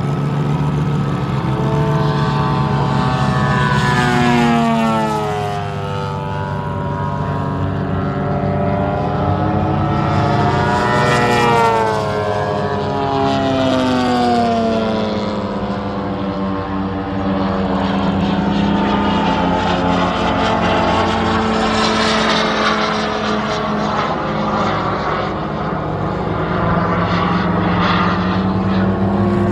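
Radial-engined RC model Corsair flying past repeatedly, its engine running steadily while the pitch rises and falls with each pass.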